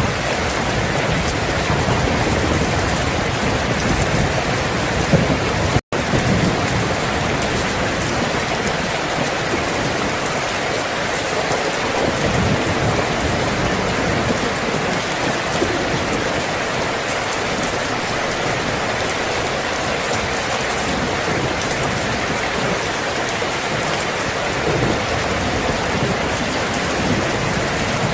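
Steady heavy rain, with low rumbles of thunder swelling in and out. The audio cuts out for a split second about six seconds in.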